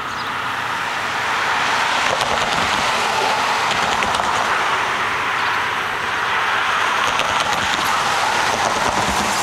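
Steady rushing vehicle noise, growing a little louder over the first couple of seconds.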